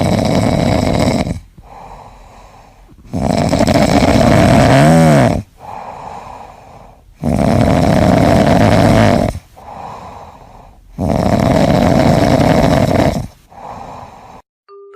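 A cat snoring loudly: four long snores about three and a half seconds apart, with quieter breaths in between.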